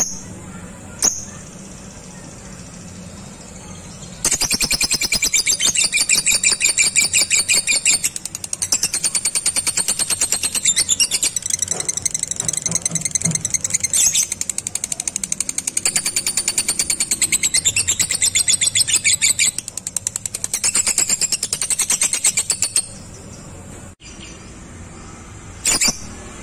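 Lovebird ngekek: a long, rapid chattering trill of shrill, evenly repeated notes lasting about eighteen seconds, with a few short single chirps before it and near the end.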